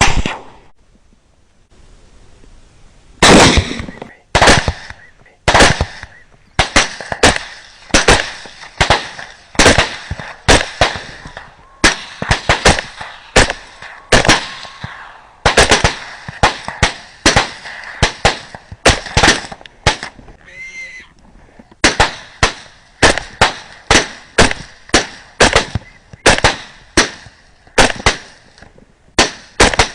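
Gunshots fired in quick succession, dozens of them, often two or three a second with short pauses, starting about three seconds in. A brief high-pitched call sounds between shots near the two-thirds mark.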